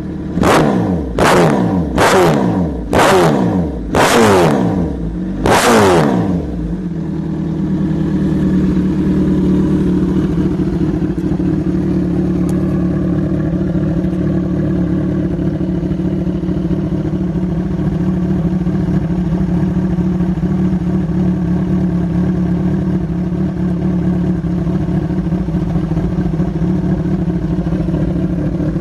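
Kawasaki Z1000's inline-four exhaust: six quick throttle blips in the first six seconds, each jumping up in pitch and falling back, then a steady idle.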